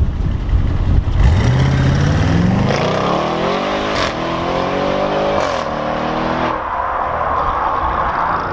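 Audi RS6 with a Milltek sport exhaust accelerating hard from a launch-control start. Its engine note rises steeply, drops at an upshift about a third of the way in, and climbs again. It drops at a second shift a little past halfway, then runs on more steadily, with wind noise on the microphone.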